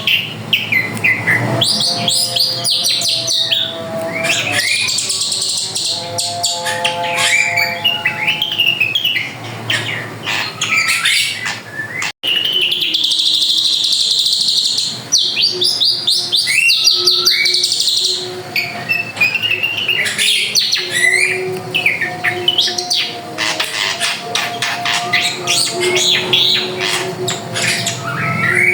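A drongo singing busily: a varied, unbroken run of whistles, chirps and trills, with a few longer held notes. The song breaks off abruptly for an instant about twelve seconds in, then carries on.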